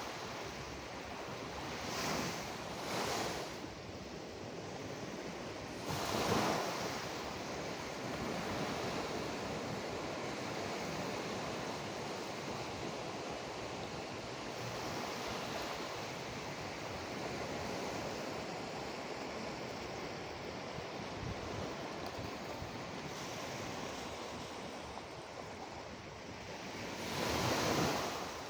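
Ocean waves breaking and washing on the shore, a steady rush of surf with louder swells a few times.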